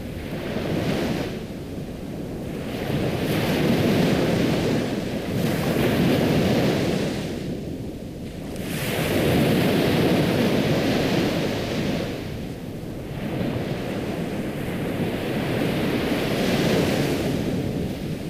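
Ocean surf: waves washing in and falling back, the rush swelling and fading every few seconds.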